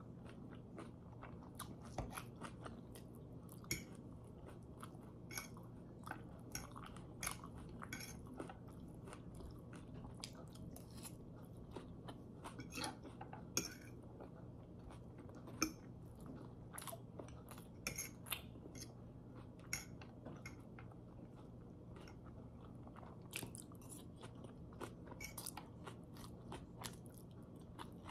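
Chewing and mouth sounds of someone eating pad thai noodles: soft, wet chewing with many small irregular clicks and smacks throughout.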